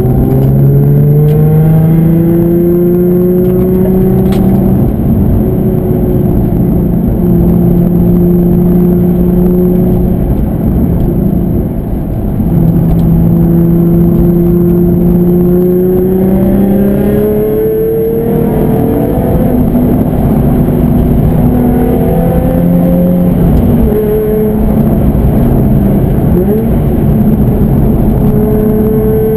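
Nissan 350Z's 3.5-litre V6 heard from inside the cabin, pulling through the gears: the engine note climbs in pitch, drops at each gear change, and climbs again, several times over, with a brief lift off the throttle about twelve seconds in.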